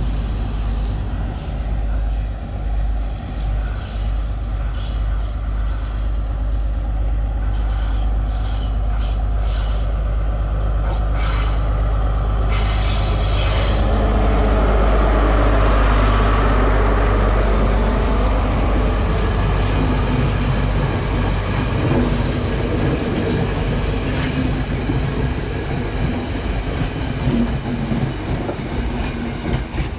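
Sri Lanka Railways diesel train passing close by: a heavy, steady engine rumble, with a brief high-pitched hiss or squeal about twelve seconds in, and wheel and track noise swelling to its loudest around the middle.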